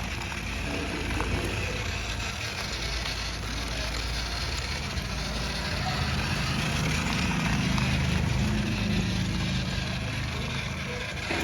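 RC toy tractor running with a steady engine-like drone, its pitch rising slightly partway through, over a constant hiss.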